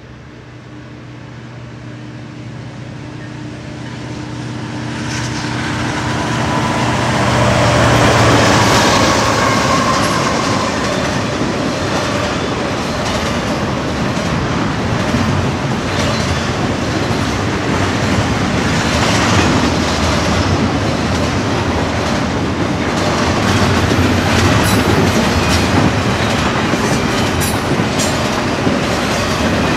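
Diesel freight locomotive approaching, its engine drone growing steadily louder over the first several seconds. Then double-stack intermodal well cars roll past with a steady rumble of wheels on rail and repeated clicks as the wheels cross rail joints.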